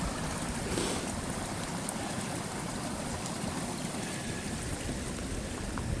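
Steady sound of running water: rainwater runoff flowing in a small stream.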